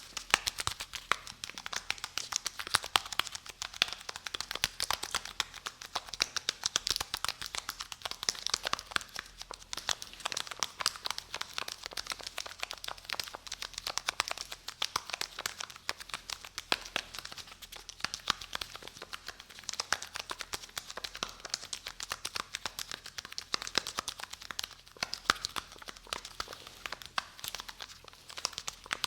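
Close-miked ASMR crinkling and crackling: a dense, fast stream of fine clicks with no pauses.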